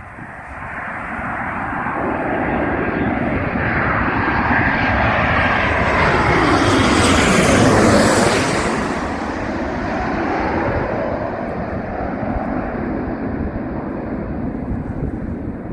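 Jet airliner passing close on its landing approach. The engine noise swells to a peak about halfway through, with tones gliding down in pitch as it goes by, then eases off.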